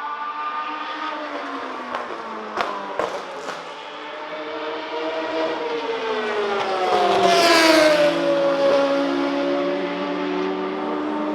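Racing sports car engines at speed, with a few sharp cracks about three seconds in. One car passes close about seven to eight seconds in, its engine note falling in pitch as it goes by.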